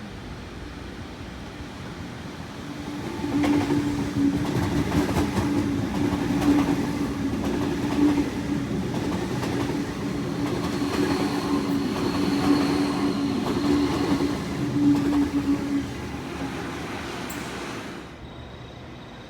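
A train passing close by: a steady low hum with wheels clicking over the rail joints, starting about three seconds in and dying away near the end.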